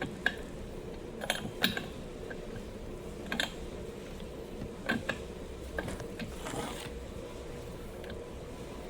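Scattered clicks and knocks of a wrench working a very tight spark plug loose from a Stihl MS 250 chainsaw's cylinder, about half a dozen over several seconds, over a steady low hum.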